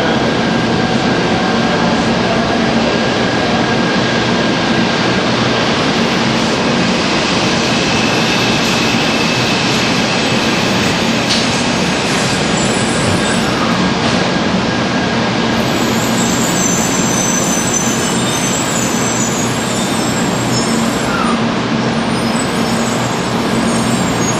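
Shinkansen train pulling in slowly along the platform: a loud, steady rush of train noise, with faint high squeals in the second half.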